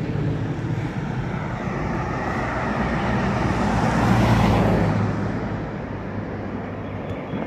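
A motor vehicle passing close by: engine hum and road noise swell to a peak about four seconds in, then fall away quickly.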